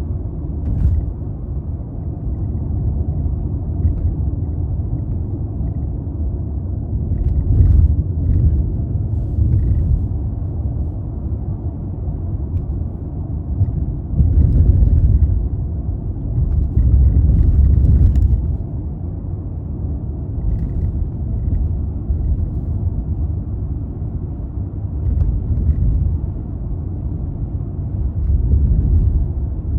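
Toyota Crown Athlete (200-series, 2.5 L V6) under way: a continuous low rumble of engine and road noise, swelling louder several times, around 8, 15 and 18 seconds in and again near the end.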